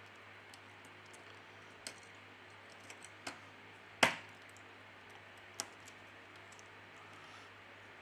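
Scattered small clicks and taps of tools and parts being handled while a smartphone is reassembled, the sharpest about four seconds in, over a faint steady hiss and hum.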